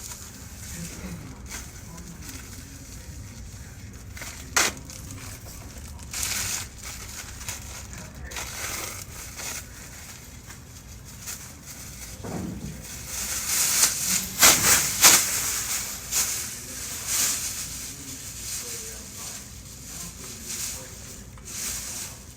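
Irregular rustling and crinkling handling noise, loudest about two-thirds of the way through, with a sharp click about four and a half seconds in.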